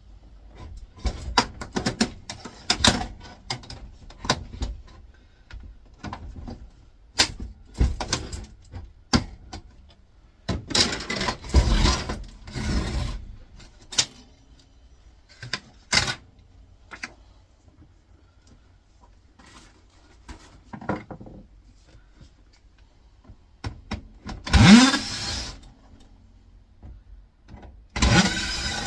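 Irregular clicks, knocks and scrapes from the plastic housing of an air fryer being worked apart with hand tools while screws are taken out. There are louder noisy bursts about halfway and again near the end, one with a short rising whir.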